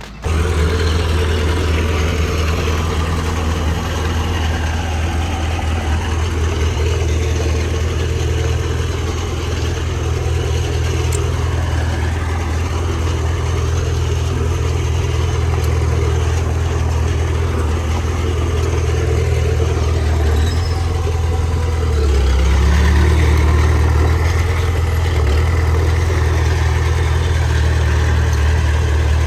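Heavy diesel engine of earthmoving machinery running steadily with a deep drone. About three quarters of the way through it gets louder and deeper, as if working harder.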